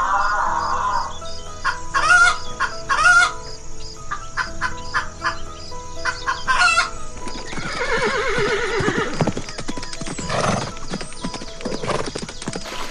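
Animal calls over background music: short calls a couple of seconds in, then a long wavering call that falls in pitch about eight seconds in, and more calls near the end.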